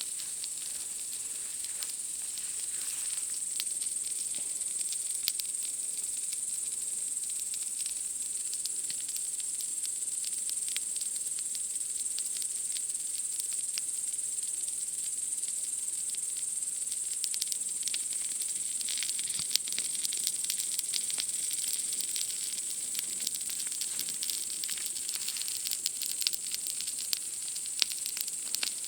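Wood campfire crackling with scattered sharp pops, a few louder near the end, over the steady high-pitched chirring drone of night insects.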